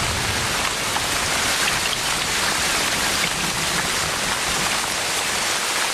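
Heavy tropical rain falling steadily on the rainforest, a dense, even hiss of downpour.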